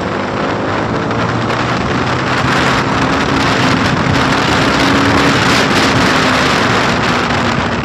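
Motorcycle running at highway speed, its engine note climbing slightly and then easing off near the end, under heavy wind rush on the microphone.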